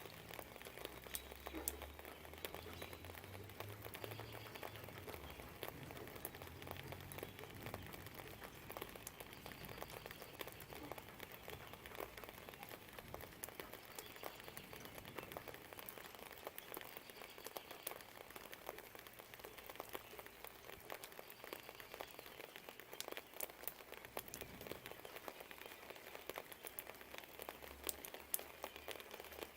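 Steady light rain with single raindrops ticking close by on a surface. A faint low rumble runs under it for the first several seconds and comes back near the end.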